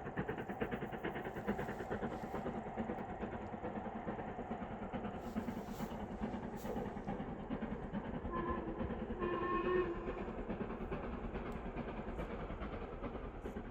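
LMS Black Five 4-6-0 steam locomotive working a train, its exhaust beating rapidly and steadily. Its whistle sounds twice about eight seconds in: a short blast, then a longer one.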